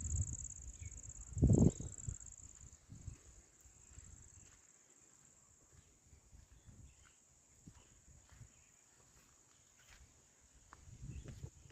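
A steady, high-pitched chorus of insects in the field, with a few low thumps in the first two seconds, the loudest about a second and a half in.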